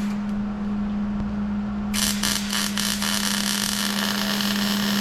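Impact wrench starting about two seconds in and running on, loosening a plow blade bolt, over a steady low engine hum.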